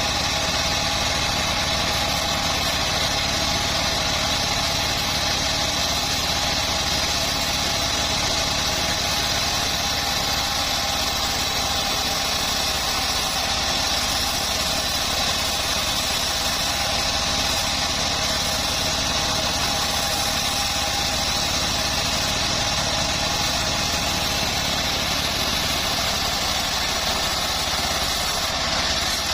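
Homemade bandsaw mill running steadily, with a constant machine hum and a high whine that never changes in pitch or level.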